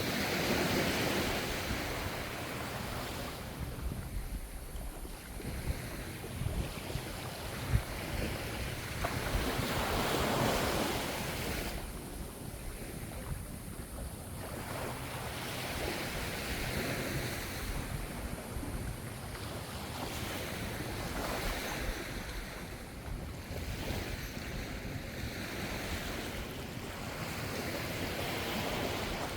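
Ocean waves washing onto the shore, a steady rushing surf that swells and ebbs, surging loudest about a second in and again around ten seconds in.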